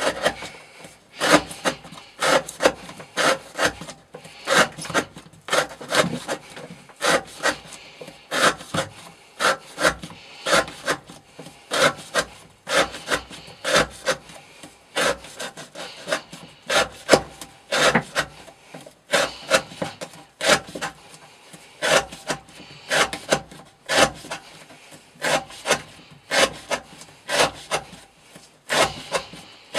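A knife blade drawn in repeated rasping strokes, about two a second, often in pairs.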